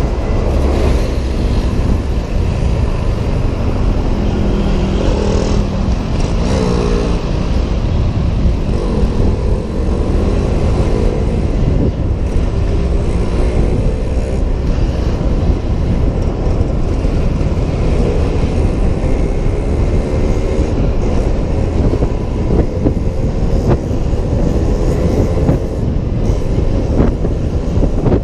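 Riding a Honda PCX 125 scooter in city traffic: a steady low rush of wind and road noise on a helmet-mounted camera, with engine notes that rise and fall several times as vehicles speed up and slow down.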